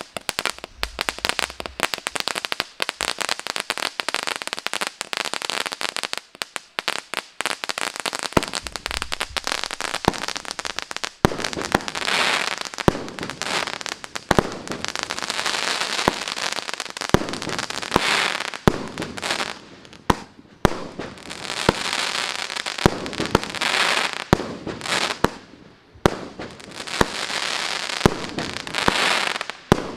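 A 30 mm, 13-shot firework cake firing. Dense crackling for the first several seconds, then sharp shots every second or two, each followed by the hiss and crackle of sparks bursting in the air.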